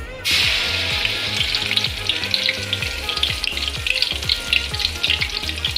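Blended wet spice paste poured into hot oil in a wok, meeting it with a sudden loud sizzle a moment in, then frying with steady hiss and crackling.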